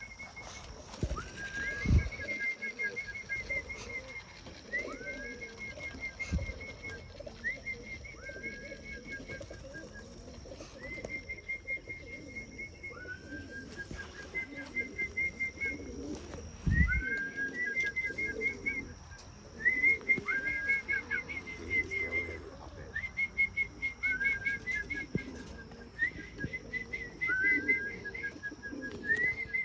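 Repeated trilled whistles, each a quick upward slide into a fluttering note, alternating between a higher and a lower pitch and sounding every couple of seconds, the way a fancier calls pigeons in to feed. Pigeons flap their wings around the loft, with a few dull thumps.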